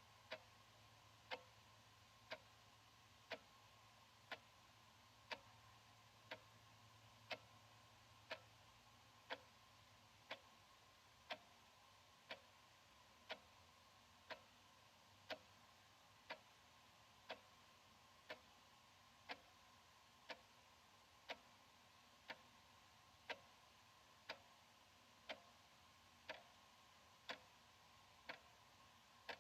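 Analog wall clock ticking softly, one sharp tick a second at an even pace.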